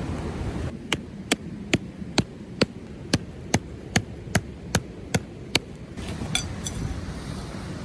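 Repeated sharp knocks, about a dozen at a steady pace of roughly two and a half a second, like something being struck by hand; after about six seconds they give way to a few fainter knocks.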